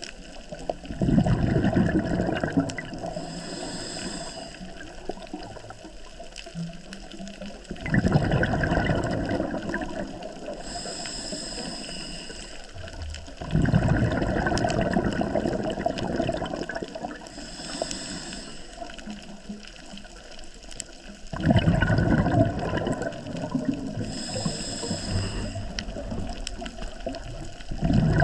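Scuba diver breathing through a regulator underwater in a steady cycle about every seven seconds. A short hiss of inhaling through the demand valve is followed by a louder rush of exhaled bubbles that gurgles away over a couple of seconds.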